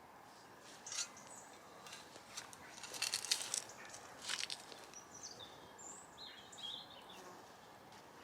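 A few short rustles and scrapes, loudest about three seconds in, followed by a bird chirping several times in the second half.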